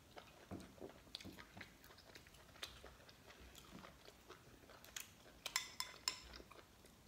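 A person chewing and biting lobster meat, with soft wet mouth sounds and small clicks. About five seconds in comes a quick run of sharp clicks as a spoon works in a small glass bowl.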